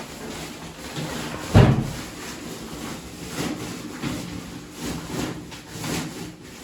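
Irregular knocks and scrapes of objects being handled and moved about, with one heavy thump about a second and a half in.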